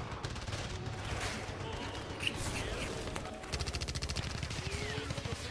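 Gunfire in rapid volleys, with a fast, even automatic burst setting in about three and a half seconds in.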